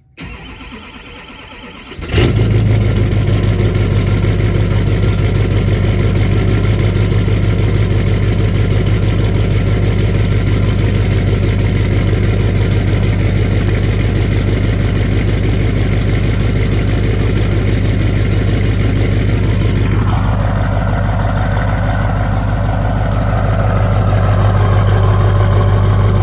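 Truck engine cold-started at about 25 °F: the starter cranks for about two seconds, then the engine catches and settles into a steady fast cold idle. About twenty seconds in, the tone of the idle changes.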